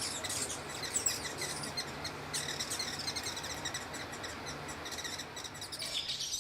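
A bird's rapid, high chips and twitters over a steady hiss of outdoor noise, with a faint low hum underneath.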